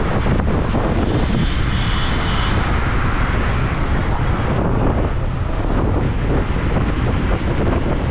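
Steady rush of wind buffeting the microphone, with road and traffic noise from a moving motorcycle.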